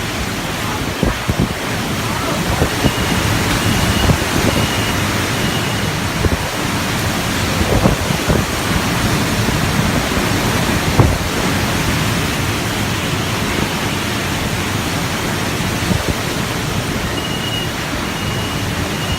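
Typhoon wind and driving rain as a loud, steady rushing noise, with gusts buffeting the microphone. A high beep repeats several times about three seconds in and again near the end.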